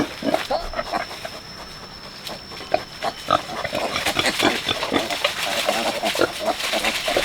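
Pigs grunting and squealing: a busy run of short grunts and high squeals that grows denser about halfway through.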